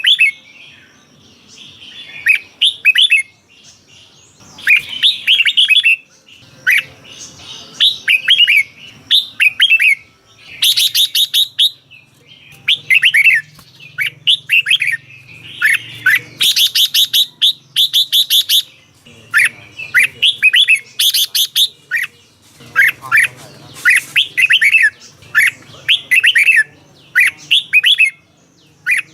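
Red-whiskered bulbul singing short, repeated phrases of clear whistled notes, with pauses of about a second between them. Twice, around a third of the way in and just past halfway, the song breaks into a run of harsher, rapid chattering notes.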